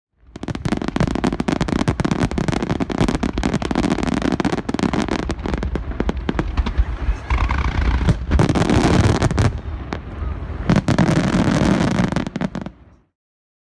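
Fireworks display: a dense barrage of shell bursts and crackling over a deep rumble, loudest around eight to nine seconds in and again near the end, then cutting off abruptly.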